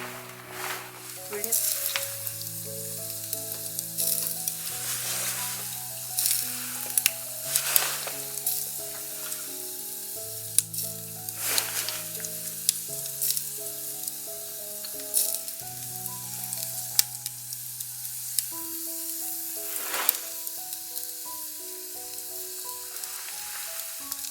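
Wood campfire crackling and hissing, with frequent sharp pops and snaps, over soft background music.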